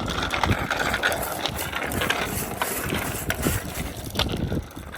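A child's bicycle rolling over pavement: a steady rough tyre and road noise with scattered clicks and rattles, easing off shortly before the end.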